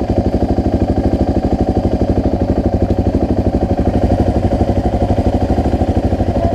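BMW motorcycle engine idling with a steady, even pulse.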